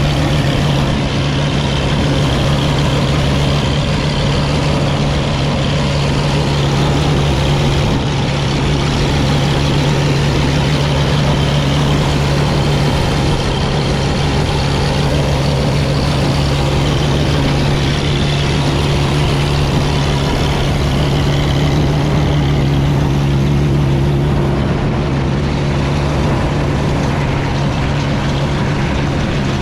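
1955 Field Marshall Series 3 single-cylinder two-stroke diesel tractor engine running steadily.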